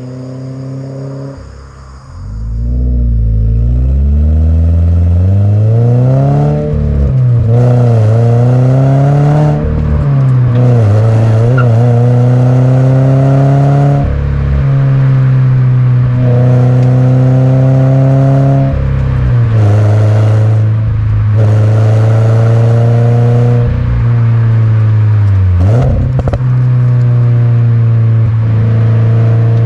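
Subaru BRZ / Toyota GR86 2.4-litre flat-four running through a COLBASSO Ti-R Plus straight-through titanium exhaust while being driven hard. The revs climb repeatedly and drop on shifts and lifts, with a few stretches held at steady revs. It is quieter for the first couple of seconds.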